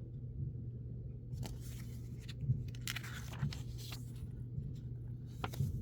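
Thin pages of a booklet being turned, with short papery rustles about a second and a half in, around three seconds in and near the end, over a steady low hum.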